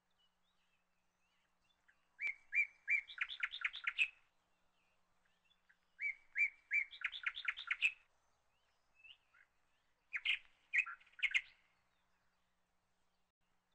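A small songbird singing three short phrases, about two, six and ten seconds in. Each phrase opens with a few separate notes and runs into a quick trill.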